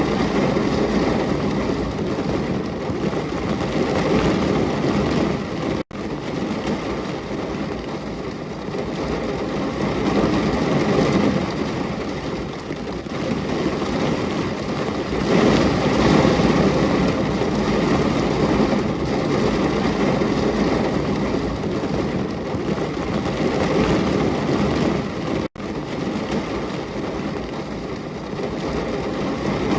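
Steady heavy rain: a dense, even hiss of falling rain that swells and eases slowly. It cuts out for an instant twice, about six seconds in and again about twenty-five seconds in.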